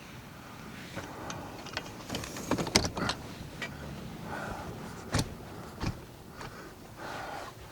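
Handling noises from the tent's straps and fittings as they are checked: a quick run of irregular clicks and knocks with some rustling, the loudest knock about three seconds in, then two more sharp knocks a little after five and six seconds.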